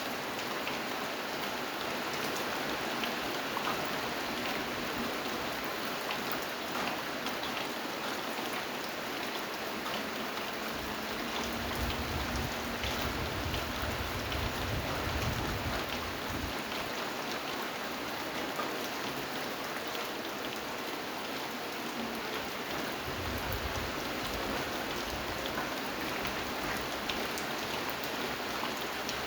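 Steady rainfall, a dense even hiss with individual drops pattering on a surface. A low rumble swells under it twice, about eleven seconds in and again about twenty-three seconds in.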